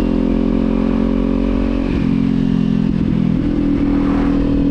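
Kawasaki Z400's 399 cc parallel-twin engine and exhaust running while riding at a steady pace. Its pitch shifts slightly about two seconds in and steps up a little past three seconds.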